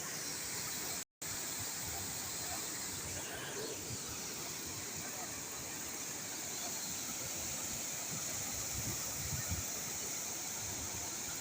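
Steady rushing of a waterfall, an even hiss of falling water. It cuts out completely for an instant about a second in.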